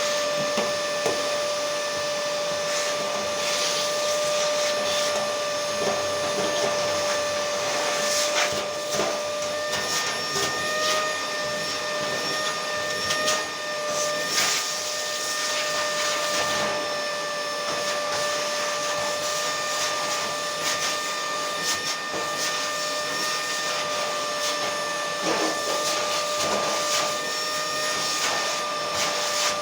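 An electric motor running steadily with a high whine, with scattered clicks and knocks over it; the whine's pitch pattern shifts about ten seconds in.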